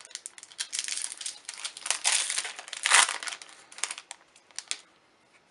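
Foil booster pack wrapper crinkling as it is handled, a busy crackling that peaks about two and three seconds in and dies away near the end.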